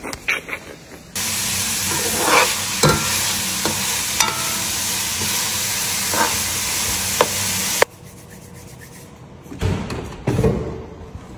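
Ground meat sizzling as it fries in a pan, with occasional clicks of a utensil stirring it. The sizzle starts suddenly about a second in and cuts off abruptly about eight seconds in, leaving quieter handling bumps.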